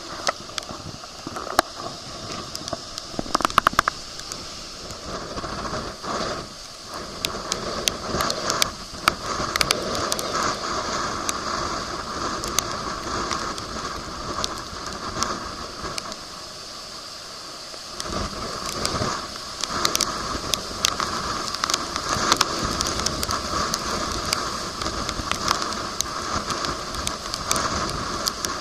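Hurricane wind and rain: a steady rushing noise with frequent sharp crackling taps.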